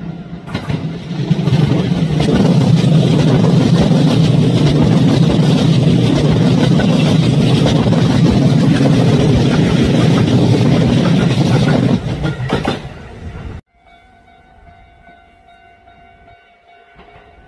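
A Kintetsu electric train passing close by, a loud continuous rush of wheels on rail that builds within the first two seconds, holds for about ten seconds, and falls away around twelve seconds in. It then cuts off abruptly, leaving a much quieter background with faint steady tones.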